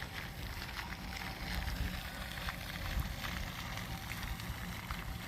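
Outdoor ambience: a steady, uneven low rumble with faint, short, high-pitched sounds scattered through it.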